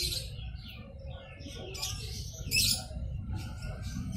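Small birds chirping in short, scattered bursts over a steady low rumble.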